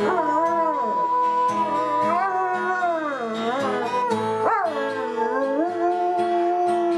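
A dog howling along with music, its long howl sliding up and down in pitch over held instrumental notes, with a quick upward yelp about four and a half seconds in.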